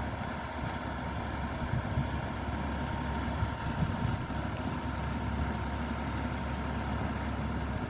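A vehicle engine idling, a steady low rumble with a faint steady higher hum above it.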